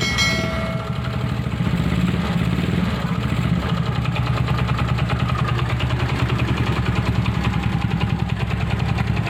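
Yamaha Mio Sporty scooter's single-cylinder engine, built to 160cc big valve, running through a Replica Pro straight-pipe exhaust. It keeps a steady, fast beat, swelling a little about two seconds in.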